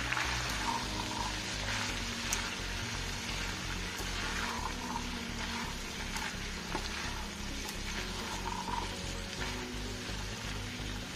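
Black chickpeas and onions sizzling steadily in a nonstick frying pan while a wooden spatula stirs them, with scattered soft scrapes and clicks. Quiet background music plays underneath.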